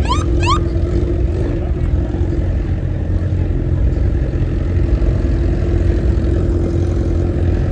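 Car engine running steadily, a loud low drone that holds an even pitch. Two quick rising chirps sound at the very start.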